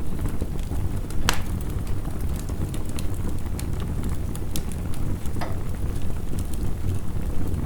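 Wood fire crackling with scattered sharp pops, a louder one just over a second in and another about two-thirds through, over the steady dense rumble and hiss of heavy rain.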